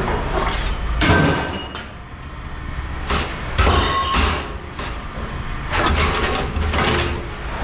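Scrap metal being handled: irregular clanks and scrapes of metal on metal, about half a dozen, over the steady low hum of running machinery.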